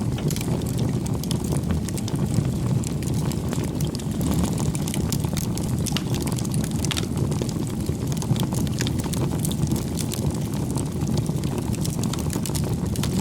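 Wood fire burning: a steady low rush of flames with frequent small crackles and pops.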